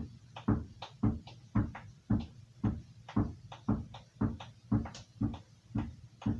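Carving knife stroked over a leather strop, honing its edge: an even run of short strikes, about two a second.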